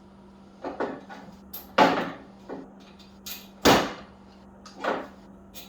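Four knocks and clatters of tools and parts being handled, the loudest about two and nearly four seconds in, over a steady hum.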